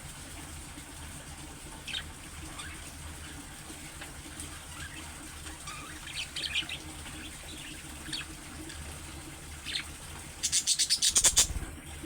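Budgerigar chirping in short, scattered high calls over a steady low background hum, followed near the end by about a second of rapid loud clicks, roughly ten a second.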